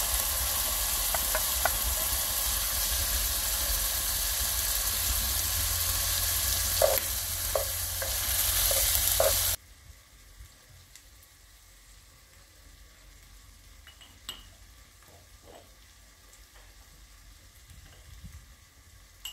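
Diced potatoes and chicken frying in a pot over a wood fire, a steady loud sizzle with a few knocks of a utensil against the pot about seven to nine seconds in. The sizzle cuts off suddenly about halfway, leaving a quiet background with a few faint clicks of a spoon.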